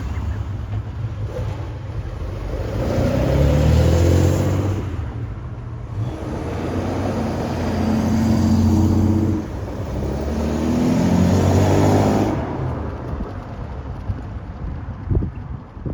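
Classic cars' engines accelerating as they drive off, one after another: three rises in engine sound, loudest about four, nine and twelve seconds in, then fading.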